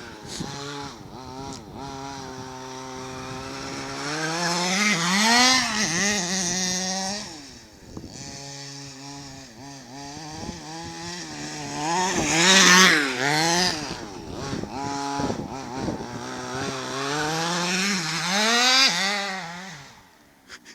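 Small two-stroke engine of a 4WD RC car with a banana exhaust, revving up and down as it drives. It grows loud as the car comes close about five, twelve and nineteen seconds in, and fades in between.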